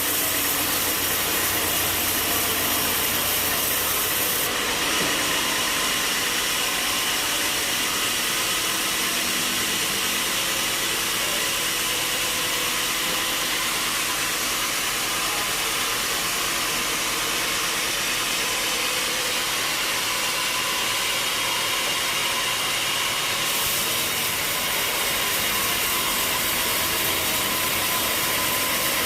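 Sawmill machinery running steadily as a saw cuts through a black walnut log, a continuous mechanical and sawing noise. The highest hiss thins out about four seconds in and comes back near the end.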